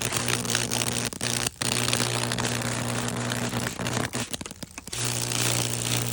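High-voltage Lichtenberg wood-burning discharge: a steady electrical hum and buzz with crackling as the current burns fractal paths through the board. It cuts out briefly about a second and a half in, and it stutters on and off for about a second near the four-second mark before it steadies again.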